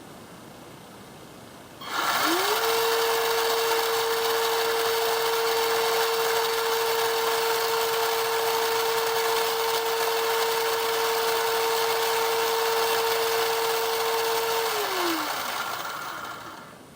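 Kyosho Blizzard FR's stock electric motor and gearbox free-running with no load on the drive sprocket: a steady high whine that spins up quickly about two seconds in, holds one pitch for about twelve seconds, then winds down as the throttle is released.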